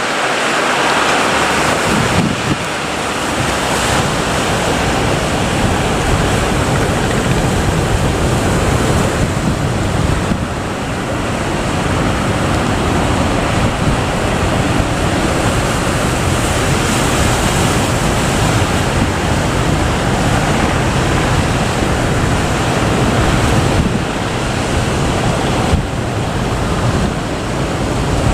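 Big ocean waves breaking in steady, dense surf, with wind buffeting the microphone.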